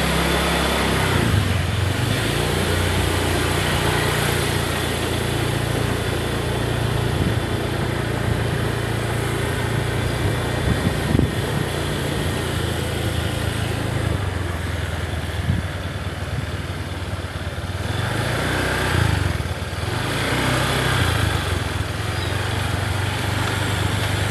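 A small engine running steadily, its pitch dropping and rising a few times, with an even rushing noise over it.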